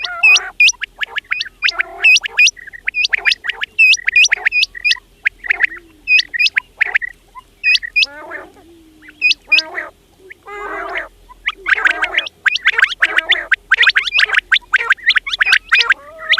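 Quails calling over and over: quick runs of sharp, high, hooked whistled notes mixed with lower rattling, chattering calls, broken by short pauses about halfway through.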